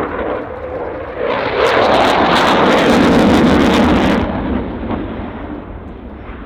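Dassault Rafale's twin Snecma M88-2 afterburning turbofans making a jet pass: the noise swells about a second in, stays loud and harsh for around three seconds, then fades as the jet moves away.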